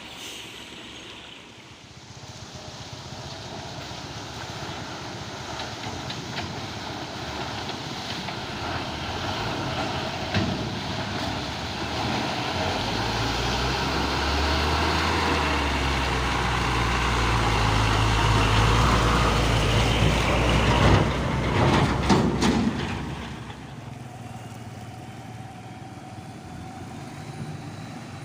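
Heavy diesel truck engine growing louder as it draws close, running loud and low for several seconds, then falling away sharply, leaving a quieter engine hum.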